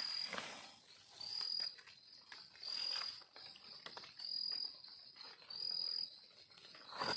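An insect calling: a high, steady-pitched trill about half a second long, repeated about every one and a half seconds, with faint clicks and rustles between the calls.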